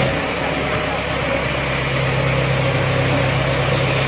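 Mahindra Arjun tractor's diesel engine running steadily at low revs.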